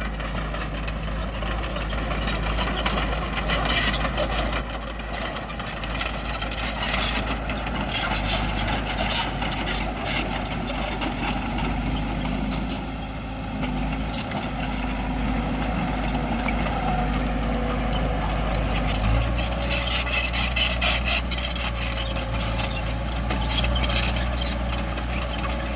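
Crawler bulldozer's diesel engine running under load while pushing rocks, with frequent metallic clanks and scrapes. The engine note changes and grows stronger about three quarters of the way through.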